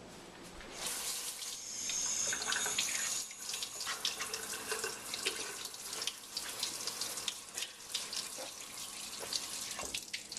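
Water running from a tap into a sink while hands are washed under it, starting about a second in, with irregular splashing as the hands move through the stream.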